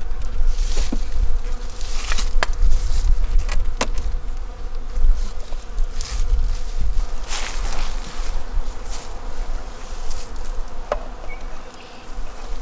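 Honeybees buzzing around an open hive, a steady hum, with a few sharp clicks about two, four and eleven seconds in.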